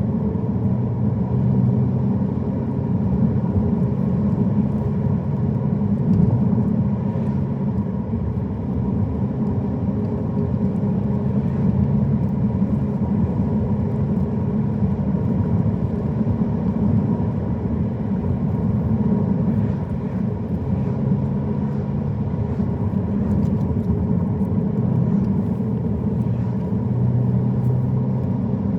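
Car driving along at a steady pace: a continuous low rumble of engine and tyre noise with a faint, constant higher hum.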